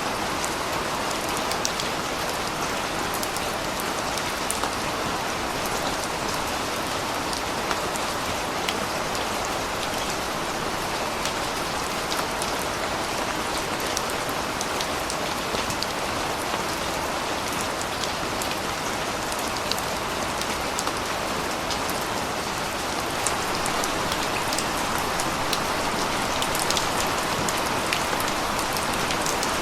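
Steady rain falling and pattering on surfaces, with many fine drop ticks, getting a little heavier near the end.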